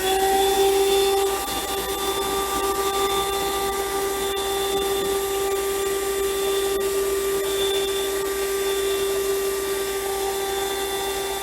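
Handheld 120 W 12-volt car vacuum cleaner running at full suction: a steady high motor whine over a rush of air.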